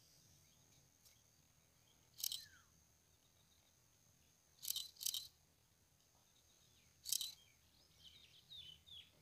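Faint bird calls in a hush: four short, sharp high calls spread through, the first trailing off downward, then a few quick chirps near the end.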